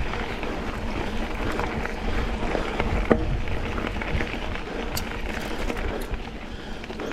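Mountain bike rolling over a dirt and gravel double-track: steady tyre noise with the bike's rattles and clicks, and a sharp knock about three seconds in.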